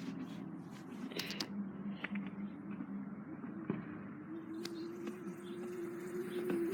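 Small dirt bike's motor running faintly at a distance, a steady hum that climbs a little in pitch in the second half as the bike speeds up. A few light clicks are heard over it.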